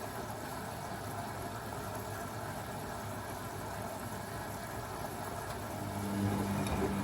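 Beko WA 1050 washing machine mid-cycle: the drum motor's hum pauses between tumbles, leaving a steady low wash of noise, and the motor starts turning the drum again about six seconds in.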